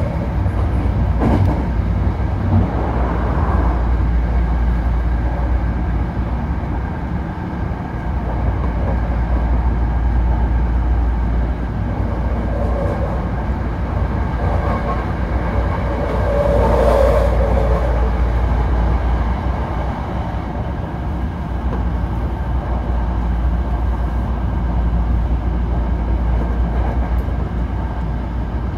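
Hankyu Kyoto Line limited express train running at speed, heard from inside the car: a steady low rumble of wheels on rail. About halfway through it grows louder for a couple of seconds as another train passes close alongside.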